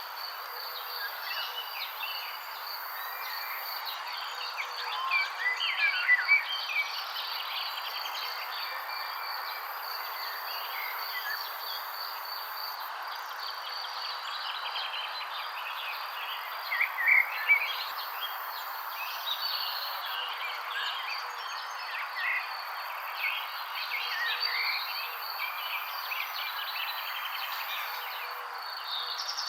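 Many birds chirping and twittering over a steady chorus of insects, with a constant high-pitched trill underneath. The chirping comes in louder flurries about six seconds in and again around seventeen seconds.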